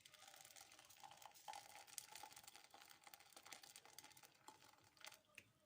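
Hot milk being strained through a small sieve into a cup: a soft trickle with many small crackles and clicks, stopping shortly before the end.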